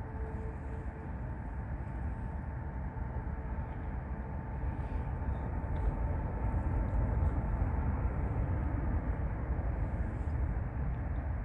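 Jet airliner engines rumbling, with a steady whine over the rumble, growing a little louder toward the middle and then easing off.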